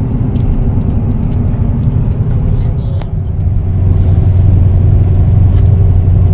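Inside a moving car: steady engine and road rumble, which grows louder about four seconds in.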